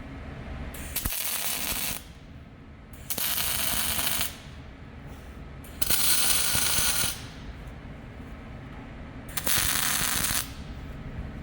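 MIG welder laying four short tack welds on steel box-section, each a crackling hiss of about a second, with pauses of a second or two between them.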